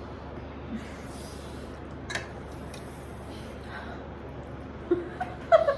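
Quiet room noise with one sharp click about two seconds in and a few short voice sounds near the end.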